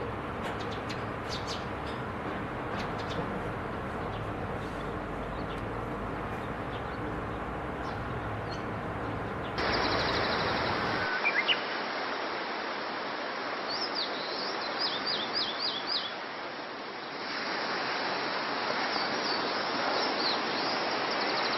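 Yellowhammer song: a quick run of short repeated notes over steady background noise, with scattered faint chirps earlier on. The recording changes abruptly about halfway through.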